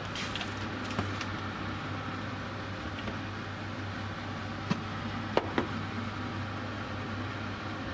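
A steady low hum with a few sharp clicks and knocks scattered over it, two of them close together a little past the middle.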